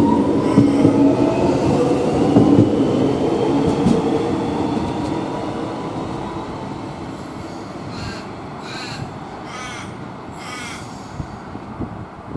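X'Trapolis electric multiple-unit train pulling away, its traction motors whining upward in pitch as it gathers speed and its rumble fading. Corvids caw several times in the second half.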